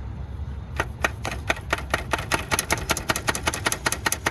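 2000 Honda Odyssey's starter solenoid clicking rapidly, about six clicks a second, while the key is held in the start position and the engine does not crank. This is the sign of a failed starter whose solenoid isn't making contact with the motor.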